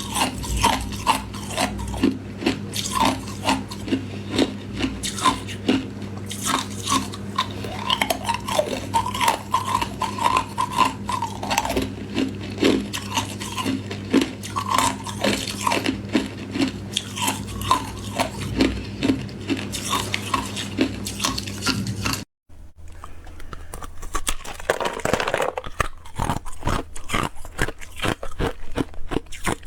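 Ice cubes crunched and chewed close to the microphone in a rapid run of sharp, hard crunches. The sound cuts off abruptly about two-thirds of the way through, then resumes as quieter, sparser chewing.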